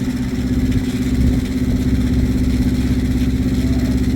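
An engine running steadily at a constant speed: a low, even hum with a fast low throb underneath.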